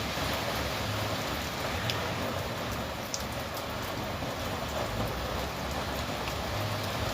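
Steady rain falling, with a few single drops ticking out clearly, about two and three seconds in.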